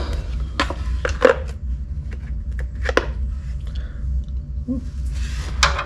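Scattered metal clinks and taps of a socket and ratchet being handled and fitted to the oil drain plug of a 1965 Ford Mustang, about a dozen separate clicks with a short cluster near the end, over a steady low hum.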